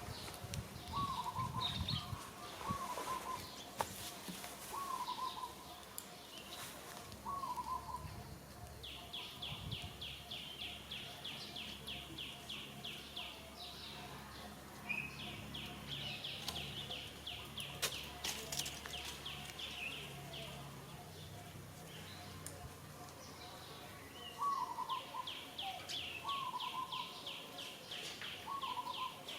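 Birds calling outdoors: a short rising-and-falling call repeated every second or so, and three fast, high trills of several seconds each.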